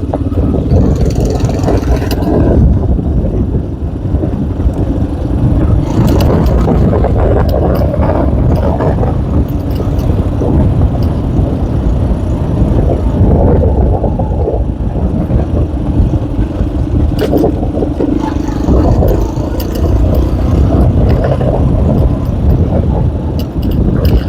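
K Moto ATX enduro motorcycle engine running as it rides, its pitch rising and falling with the throttle, with knocks and rattles from the rough ground.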